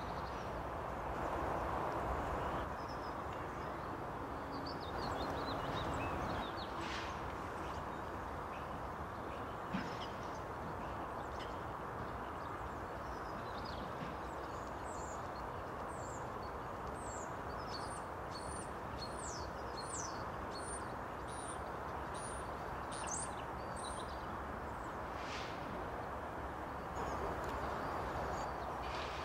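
Wild birds calling: scattered high, thin chirps, with a quick run of short falling notes through the middle stretch, over a steady low rushing background.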